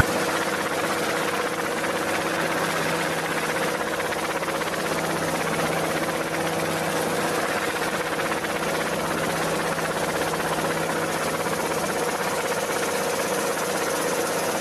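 A small motor running at a constant speed, giving a steady hum with a whirring noise over it.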